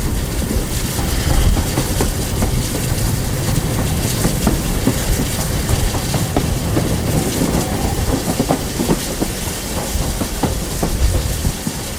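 Heritage railway train running along the line: a steady rumble and hiss, with the wheels clicking over the rail joints.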